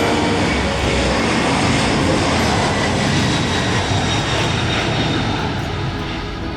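Airplane passing by with a loud rushing engine noise that is strongest in the first few seconds and starts to fade near the end.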